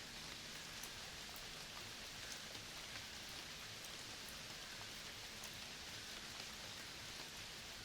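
Steady rain falling: a soft, even hiss with scattered single drops ticking through it.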